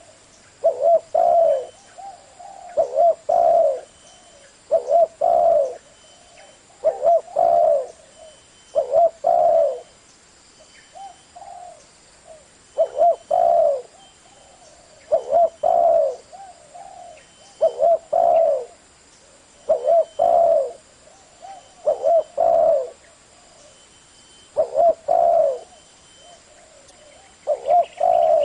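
Spotted dove cooing: a short phrase of several low notes, repeated about every two seconds.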